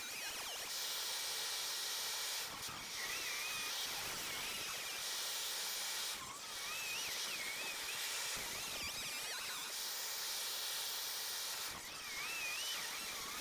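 A steady high hiss that dips briefly three times, with faint wavering whistle-like tones over it.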